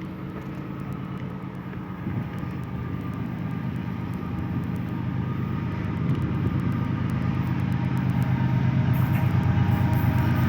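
Diesel-electric freight locomotive approaching, its engine note growing steadily louder.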